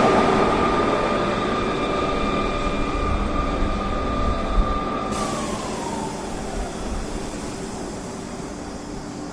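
Electric train running past and away, its motor whine holding a steady pitch and then dropping about five seconds in, over wheel and track rumble that fades steadily.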